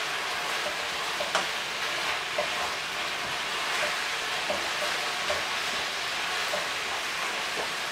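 Chicken stir-fry sizzling steadily in a wok over a gas burner, with a few short clicks and scrapes of the utensil stirring it against the pan.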